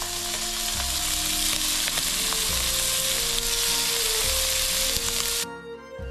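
Shelled prawns sizzling in hot oil in a non-stick wok as they are sautéed, a dense steady sizzle that cuts off suddenly near the end, leaving background music.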